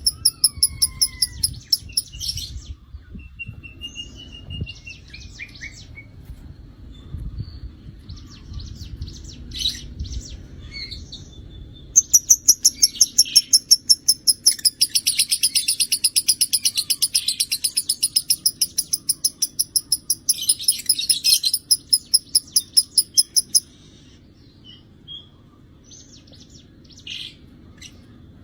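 Lovebird singing in long runs of rapid, high-pitched repeated chirps: a short run at the start, then a chattering run of about twelve seconds in the middle, with scattered single chirps and a short falling whistle between the runs.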